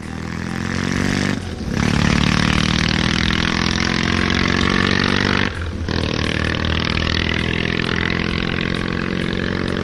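Motorcycle engine accelerating hard, its pitch rising steadily, with two brief drops where it shifts up a gear, about a second and a half in and again near the six-second mark.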